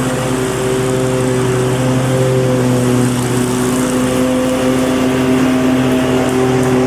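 Lawn mower engine running steadily at a constant speed, its note wavering slightly in pitch.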